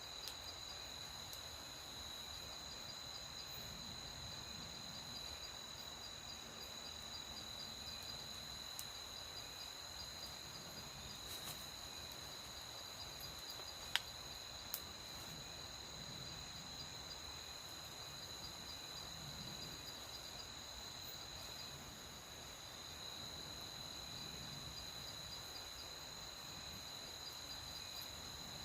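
Night insects, crickets, chirping in a steady, unbroken high chorus, with a fast pulsing trill among them. A couple of sharp clicks stand out about halfway through.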